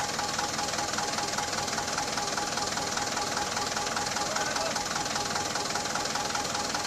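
Canter 4x4 truck's diesel engine running steadily under load, holding an even note without revving up or down.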